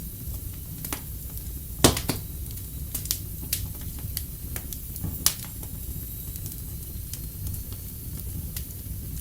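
Wood fire in a fireplace crackling: irregular sharp pops and snaps over a steady low rumble and hiss, with the two loudest pops about two seconds in and about five seconds in.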